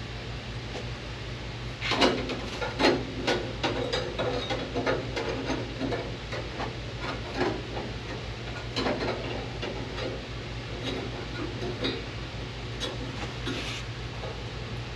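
Hammer striking a sheet-steel patch panel as it is shaped: irregular sharp taps with a short metallic ring, starting about two seconds in. A steady low hum runs underneath.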